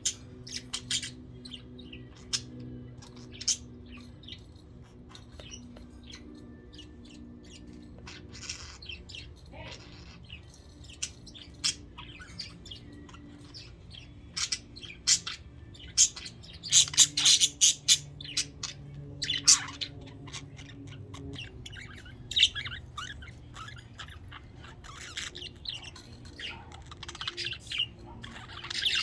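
Pet budgerigars chirping, many short high calls, in denser bursts about halfway through and again near the end. A faint low hum runs underneath.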